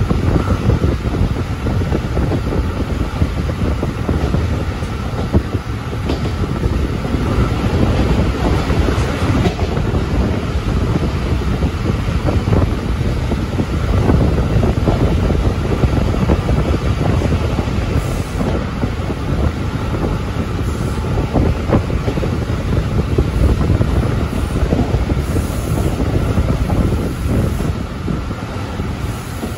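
Train of 12-series passenger coaches hauled by an ED75 electric locomotive, running along the track: a steady rumble of wheels on rails with faint repeated ticks and a thin squeal.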